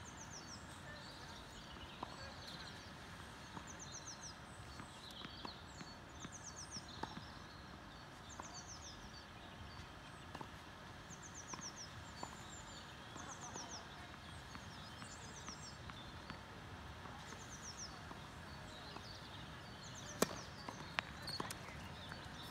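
A songbird repeating short, high phrases every second or two over a faint steady hiss. About twenty seconds in comes a sharp knock of a tennis ball struck by a racket, then a few lighter knocks.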